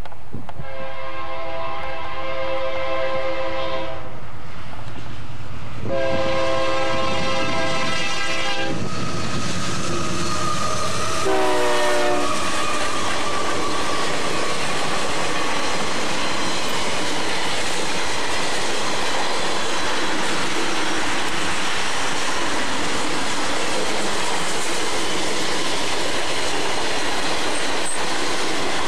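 Union Pacific diesel locomotive's multi-chime air horn blowing two long blasts and a short one that drops in pitch as the locomotive passes, warning for the grade crossing. Then the freight cars roll by with steady wheel clatter on the rails.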